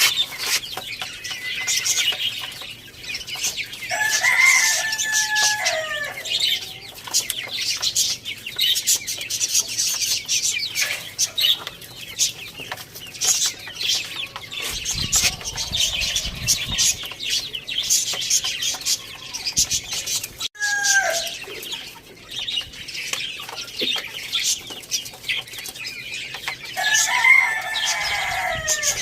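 Chickens clucking, with a rooster crowing twice: once a few seconds in and again near the end. A constant high chirping of small birds runs underneath.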